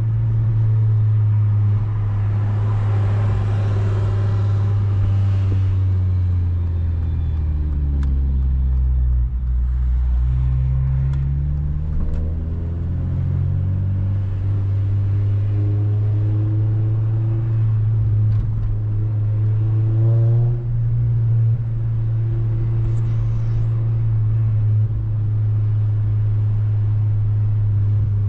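8th-generation Honda Civic Si's 2.0-litre four-cylinder engine running on the road, its note sinking a few seconds in and climbing back about halfway through, then holding steady.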